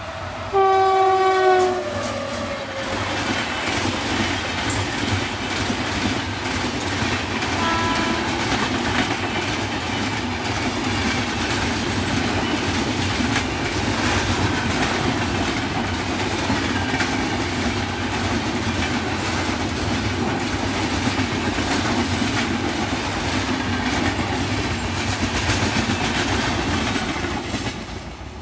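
A WAP-7 electric locomotive's horn sounds one loud blast about a second in, dropping in pitch as it ends, with a second, shorter and fainter horn note about eight seconds in. Then the coaches of a long express train rush past with a steady rumble and the clickety-clack of wheels over rail joints, fading near the end as the last coach moves away.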